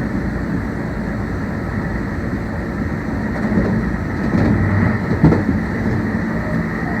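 Meitetsu 1800 series electric train running at speed, a steady rumble of wheels and motors with a faint constant whine. A louder stretch comes about four seconds in, with a single sharp knock just after five seconds.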